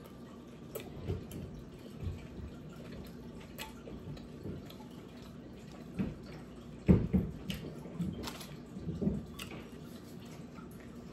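Close-up chewing and wet mouth sounds of a person eating a taco, with irregular smacks, the loudest about seven seconds in.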